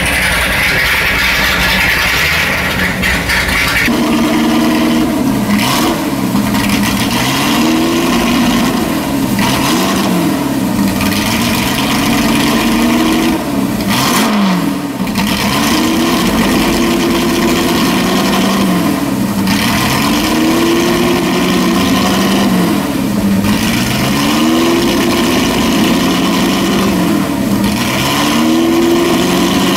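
Ford GT40 Mk II's 427 V8 running on open exhaust stacks, with a hissing rush over it for the first few seconds. From about four seconds in the engine is blipped about every three to four seconds, its pitch rising and falling each time, and it settles to a steadier note near the end.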